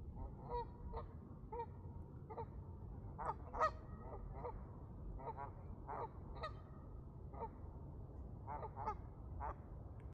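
A flock of geese honking, many short calls overlapping at an irregular pace, over a low steady background rumble.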